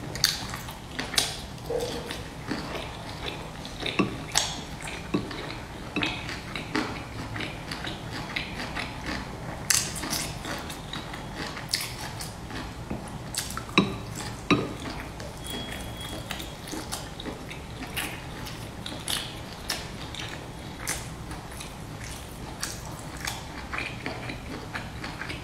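Close-miked eating of pan-fried dumplings: biting and chewing with a run of irregular crisp clicks and crunches, a few louder bites standing out.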